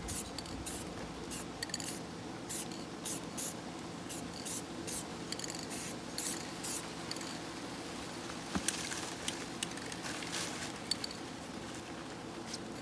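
Short, quick hissing strokes repeated in clusters as paint is applied to the car's logo, over a steady low background hiss.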